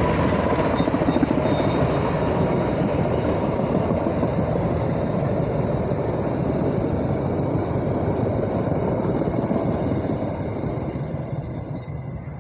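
Passenger train carriages passing close by: a steady rumble with the rapid clatter of steel wheels on the rails. It fades over the last couple of seconds as the train moves away.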